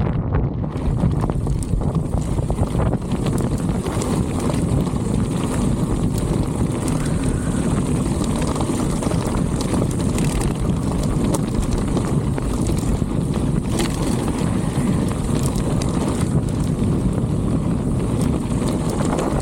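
Strong wind buffeting the microphone: a dense, steady low rumble without a break.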